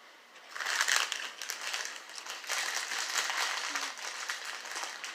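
Dense crisp crunching and crackling of chips being eaten close to the microphone, starting about half a second in.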